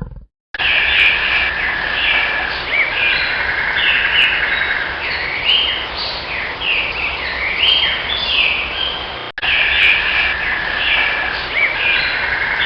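Birds chirping: a dense stream of short, repeated calls, some rising and some falling, over a steady background hiss, with a brief break about nine seconds in.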